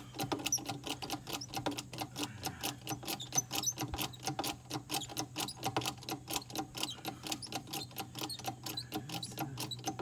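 A jack raising the tractor, clicking rapidly and evenly, about eight to ten clicks a second, over a low steady hum.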